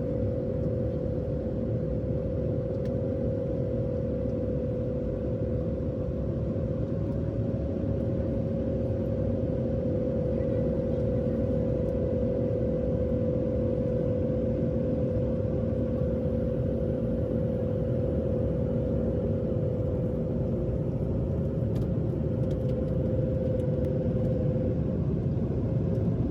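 Jet airliner cabin noise in flight: a steady rumble of engines and rushing air with a constant droning hum, heard from inside the passenger cabin.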